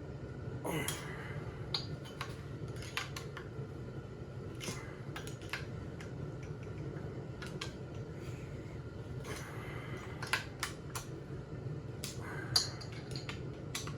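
Metal hand tools clicking and clinking at irregular intervals while the bolts on a Jonsered 2065 chainsaw are tightened down.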